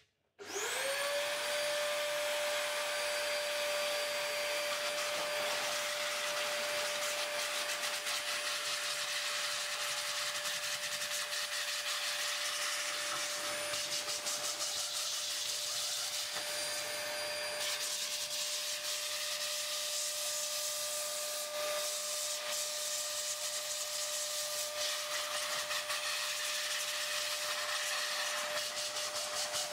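An old vacuum cleaner modified to blow air out through its hose starts up about half a second in. Its motor whine rises quickly to a steady pitch and holds, over a constant rush of air, while it blows dust out of a PC power supply.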